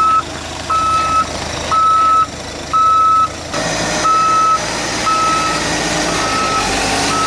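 Reversing alarm on a Tucker Sno-Cat beeping a single steady tone about once a second, each beep about half a second long. Underneath, the snowcat's engine is running and picks up about three and a half seconds in.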